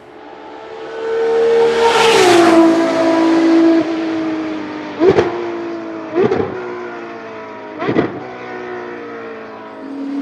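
Race car engine approaching at speed and passing, loudest about two seconds in, its pitch dropping as it goes by. It then runs on more quietly, broken by three sharp cracks spread over the next few seconds.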